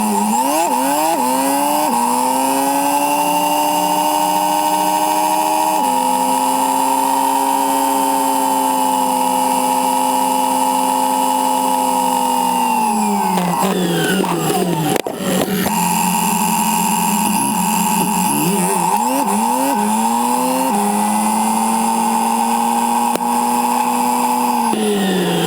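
A Yamaha Silverado's 1700cc V-twin engine running under a ride, sped up. Its revs climb and drop in quick steps as it shifts up through the gears, then hold steady at cruise before falling away about 13 seconds in. The same climb-and-cruise pattern repeats and winds down again near the end.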